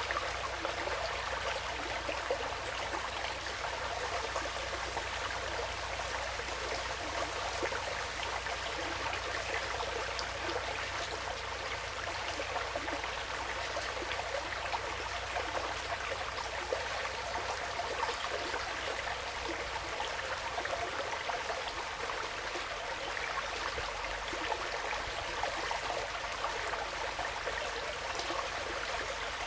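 Woodland stream flowing steadily, an even watery rush dotted with many small splashes.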